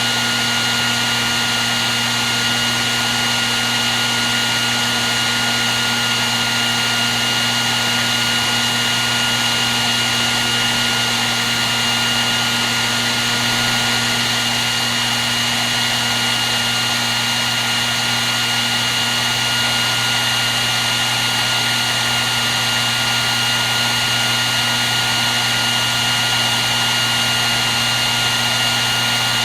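Hair dryer running steadily and without a break: an even rush of air with a constant high-pitched whine over it.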